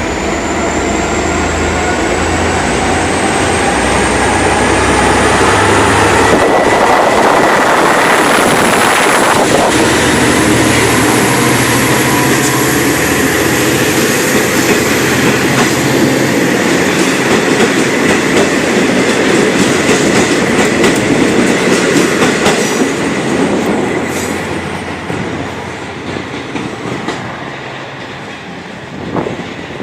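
N class diesel-electric locomotive and its carriages pulling out of the station: a low engine drone and a slowly rising whine as the train gathers speed, then wheels clacking over the rail joints as the cars pass. The sound fades away over the last few seconds.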